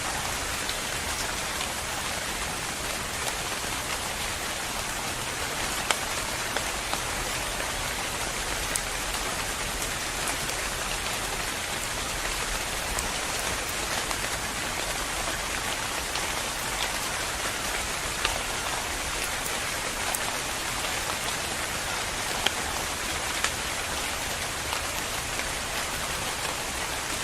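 Steady rain falling, an even hiss with now and then a single louder drop ticking on a surface.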